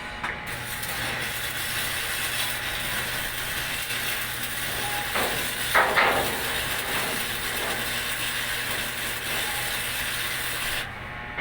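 Welding arc hissing steadily over a low electrical hum. It starts about half a second in, has a brief louder sound a little past the middle, and cuts off suddenly about a second before the end as the arc is broken.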